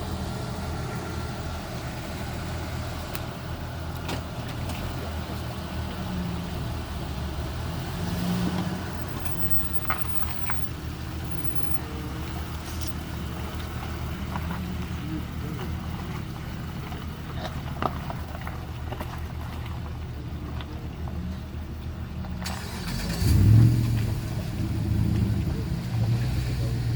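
Toyota Tacoma pickup's engine running at low trail-crawling speed, with a few sharp knocks. Near the end the engine note rises and gets louder as it revs.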